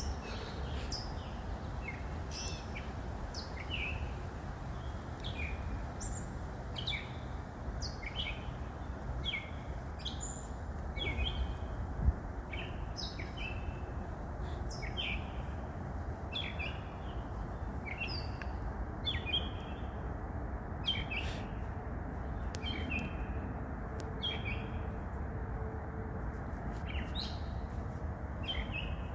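Backyard songbirds chirping and singing, a string of short downward-sliding chirps about once or twice a second, over a steady low background rumble. One sharp click stands out about twelve seconds in.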